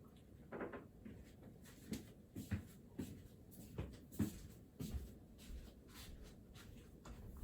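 Writing by hand on paper: a string of short, irregular pen strokes and scratches.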